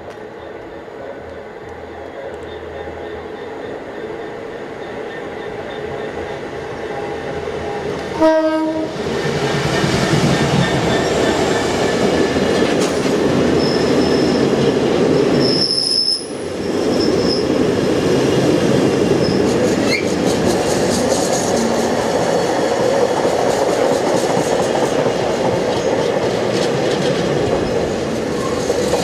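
Class 66 diesel freight locomotive approaching, louder and louder, with a short horn blast about eight seconds in. It passes at the head of a train of container flat wagons, which then rumble and clatter over the rails, with a brief high squeal from the wheels about halfway through.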